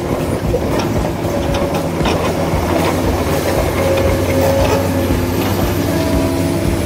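Small electric motors and gearboxes of RC model trucks running: a steady whirring hum with irregular clicking and rattling.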